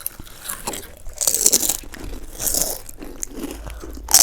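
Crunchy snack chips being bitten and chewed, with crackly crunching in several bursts about a second apart.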